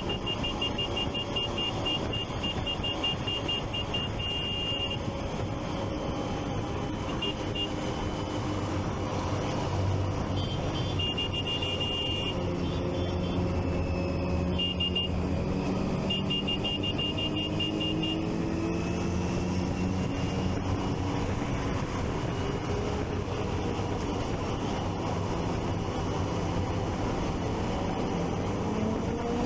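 Motorcycle riding in traffic, the engine of a Triumph Street Triple 675 inline three-cylinder running with revs rising and falling, over a steady low rumble. A rapid high beeping comes in several short bursts during the first half.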